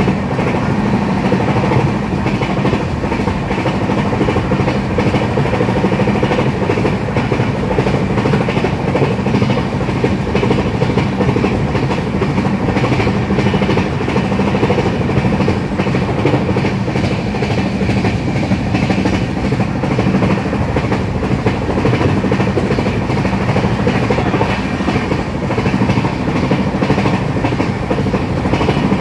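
Track sound of an LHB passenger coach running at over 130 km/h, heard from the open coach doorway: a steady, loud rumble and roar of steel wheels on the rails, unchanging throughout.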